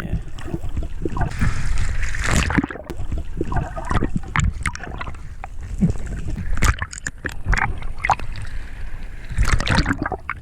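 Water splashing and sloshing, with irregular clicks and knocks.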